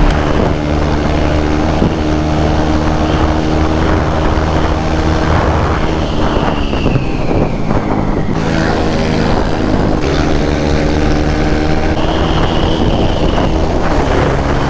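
Motorcycle engine running steadily under way, its pitch changing several times.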